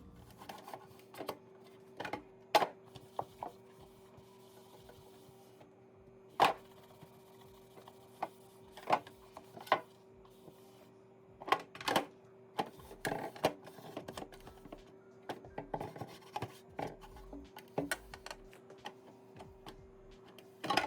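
Irregular clicks, taps and knocks of plastic refrigerator parts being handled during cleaning, over a steady faint hum.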